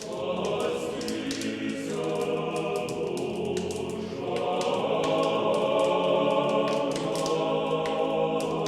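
Choir singing slow, sustained chords, swelling a little louder about four seconds in.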